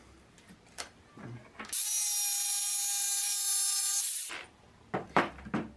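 Jigsaw with a 6 TPI blade at speed 6, no orbital action, cutting 3 mm acrylic sheet along a line covered with Scotch tape: a steady high whine that starts abruptly a little under two seconds in and stops about two and a half seconds later. A few light clicks and taps of handling come before and after the cut.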